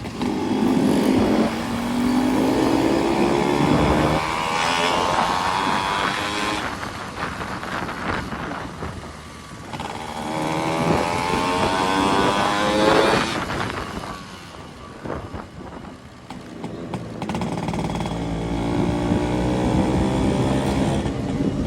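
Motorcycle engines accelerating hard, the pitch climbing and dropping back several times, as on gear changes.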